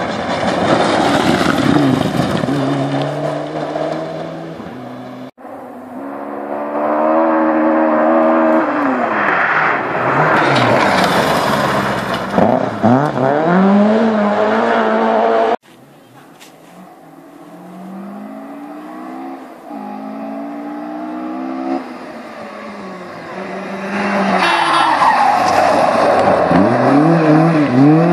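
Rally cars at full throttle on a stage, engines revving hard and rising and falling through gear changes as they pass. The sound cuts abruptly twice, moving from one car to the next.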